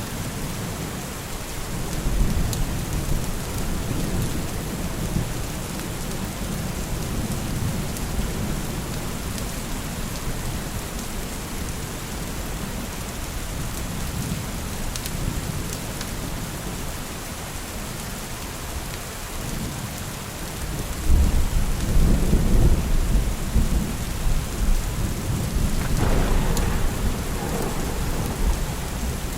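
Steady heavy rain with rolling thunder; a louder, longer roll of thunder comes about two-thirds of the way in.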